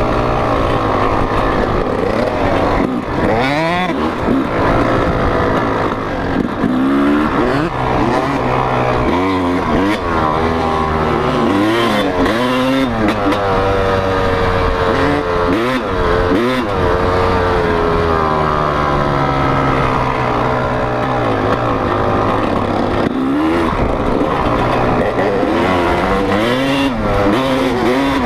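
Dirt bike engines revving hard, their pitch climbing and dropping over and over as the riders open and close the throttle and change gear.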